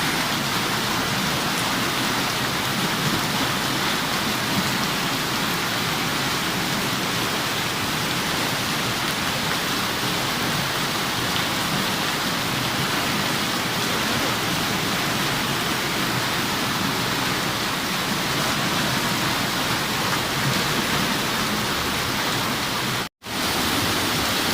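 Torrential rain: a steady, even hiss of a heavy downpour, broken by a split-second dropout near the end.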